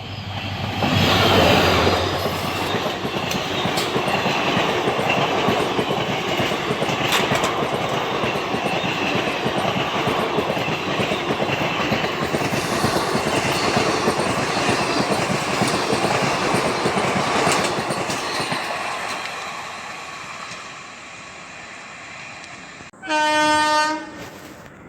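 Indian Railways express train passing at speed, its wheels clattering over the rail joints in a loud continuous rush that fades away after about 18 seconds. Near the end a locomotive horn gives one short blast of about a second.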